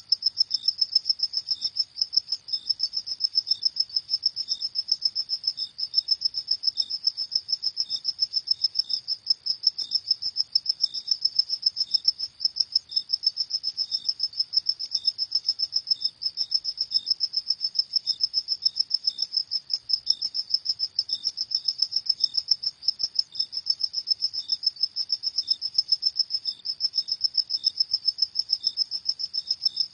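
Crickets chirping in a fast, steady, unbroken pulse, with a fainter, slower, lower-pitched chirp repeating underneath.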